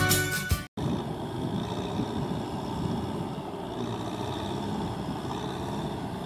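Intro music cuts off in the first second, then a Kubota M6040SU tractor's diesel engine runs steadily while tilling a wet paddy field.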